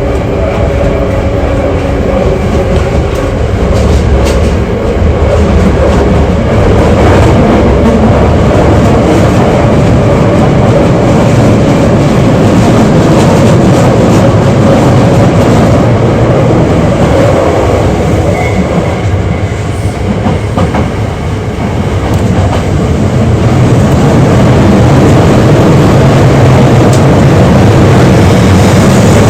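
Hankyu 8300 series electric train running through a subway tunnel, heard from inside the car: a loud, continuous rumble of wheels on rail. A steady hum sounds over it in the first few seconds and then fades.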